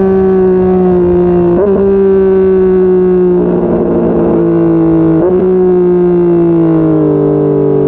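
Yamaha MT-09's inline-three engine running under way, its note sinking slowly as the bike slows. Twice, about two seconds and five seconds in, the note breaks briefly and steps back up, as on downshifts, and a stretch of crackle from the exhaust comes in the middle.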